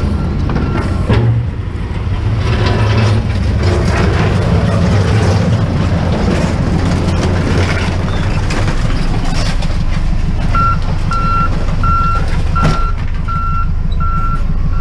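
Truck engine running with a steady low rumble, and a reversing alarm beeping at an even pace, just under a second between beeps, from about two-thirds of the way in. A single sharp knock sounds near the end.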